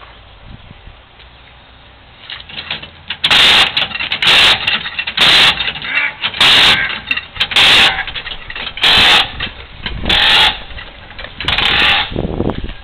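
Pneumatic air ratchet triggered in about eight short, loud bursts of hissing air. It is running weak because the air compressor has been off.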